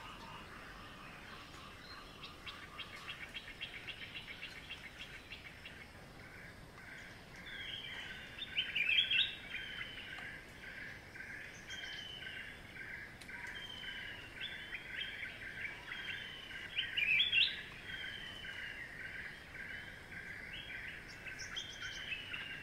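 Wild birds calling over a steady, rapidly pulsing chorus: short falling whistled notes repeat every second or two, with two louder bursts of chattering calls about nine and seventeen seconds in.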